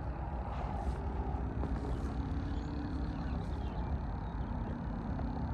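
A steady low hum from a vehicle's engine, with faint held tones and no sharp knocks.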